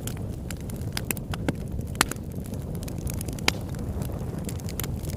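Campfire burning, wood crackling and popping irregularly over a steady low rumble of the flames, with two sharper pops about 2 and 3.5 seconds in.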